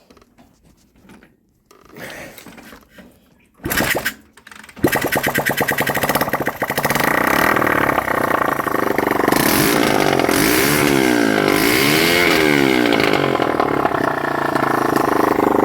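Honda CB125 RS single-cylinder four-stroke engine being started: a short burst about four seconds in, then it catches about a second later and runs steadily to the end, revved up and down a few times in the middle. The owner says it will rev out well but will only keep running at a high idle, which he puts down to worn contact-breaker points.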